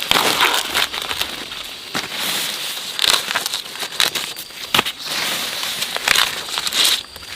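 Irregular crackling and rustling of dry material, with scattered sharp snaps.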